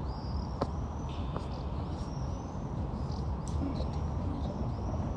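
Small birds chirping, short high arched calls repeating every second or so, over a steady low rumble.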